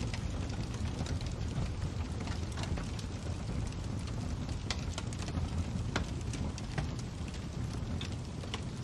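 Fire crackling: scattered sharp pops and snaps at irregular intervals over a steady low rumble.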